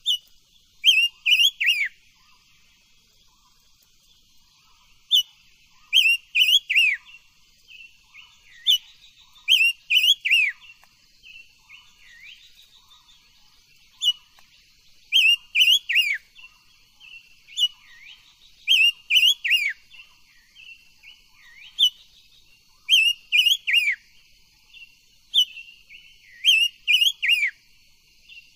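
Silver-eared mesia (chim ngũ sắc) singing: short phrases of three or four quick, falling whistled notes, repeated every few seconds.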